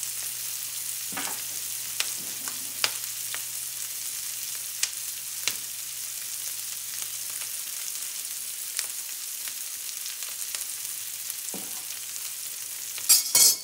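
Diced onions and yellow peppers sautéing in a nonstick skillet: a steady frying sizzle with scattered sharp pops. A brief loud clatter near the end.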